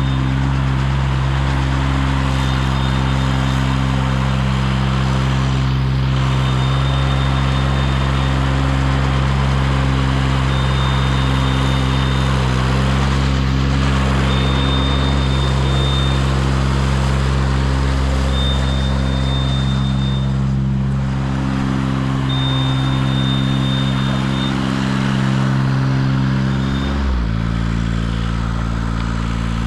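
The engine of a CMC 90-foot tracked aerial lift running steadily, with a high-pitched tone sounding in stretches of a second or two every few seconds. Near the end the engine speed drops and then comes back up.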